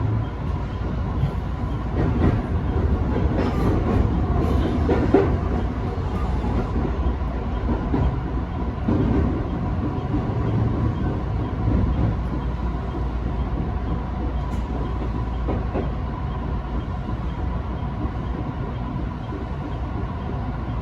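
Electric train running on the JR Nara Line, heard from inside the front car: a steady low rumble of wheels on rail with a faint steady hum. A run of clicks and knocks over rail joints comes in the first several seconds.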